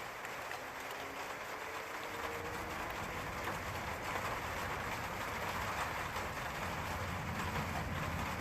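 Steady rain falling, with a low rumble of thunder coming up from about two seconds in and growing toward the end.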